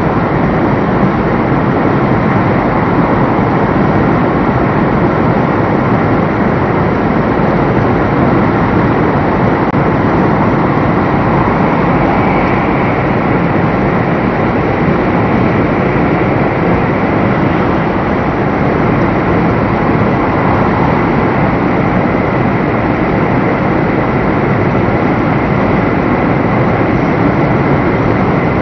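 Steady rushing noise of a JR West 500 series Shinkansen running at speed, heard from inside the passenger car.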